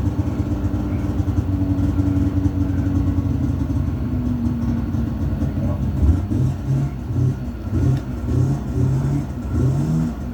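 Engine just after a cold start, running at a steady fast idle, then revved in a series of short blips from about six seconds in.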